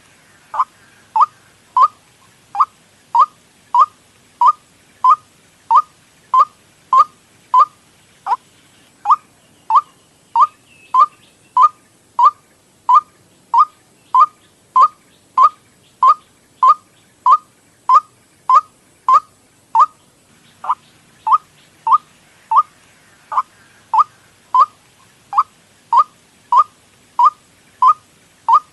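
White-breasted waterhen call used as a lure: one short, sharp note repeated evenly about one and a half times a second, with a brief break about twenty seconds in.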